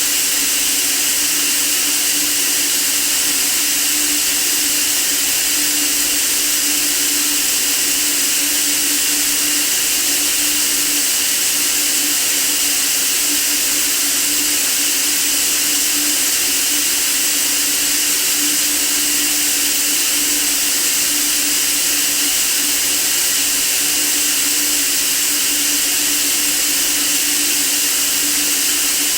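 Steady white noise for sleep: an even, unbroken hiss, brightest in the high range, with a low steady hum underneath.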